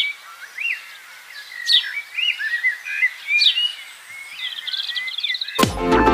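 Birds singing: a mix of short chirps and warbling whistles, with a sharp falling call about every second and a half. About half a second before the end, an electronic music intro with heavy bass beats starts loudly.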